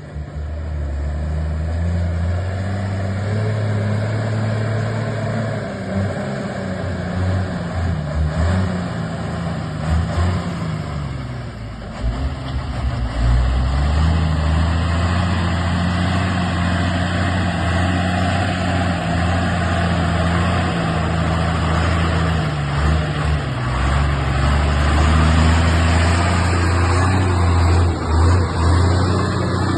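Truck engine running steadily under load. Its pitch sags and climbs again a few times, with a brief easing off about twelve seconds in before it picks up and runs louder.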